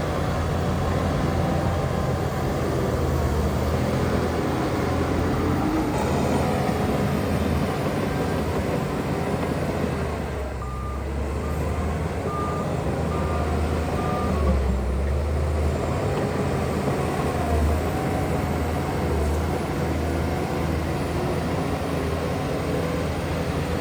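Heavy diesel earthmoving machinery running steadily with a deep engine rumble. About halfway through, a reversing alarm beeps about five times.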